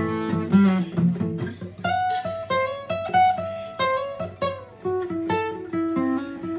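Acoustic guitar playing an instrumental break in a bluesy tune: a run of quickly picked single notes stepping up and down over strummed chords.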